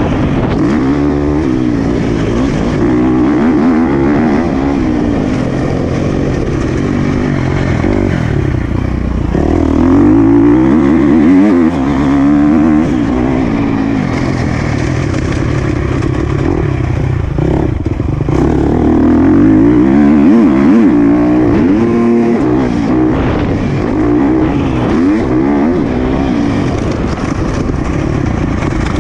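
Motocross dirt bike engine being ridden hard, revving up and dropping back over and over through throttle and gear changes, with brief dips in between.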